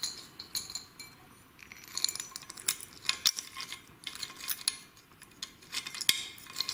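Irregular metallic clinks and taps of washers, bolts and tools being handled while fitting the swing arm pivot of a motorcycle's leading-link front fork.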